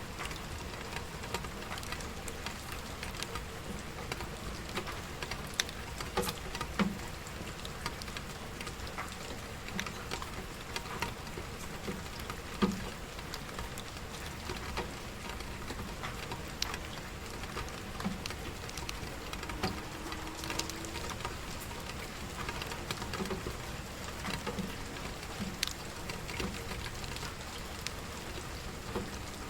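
Steady rain falling, with irregular sharp pops and crackles of a wood fire scattered through it.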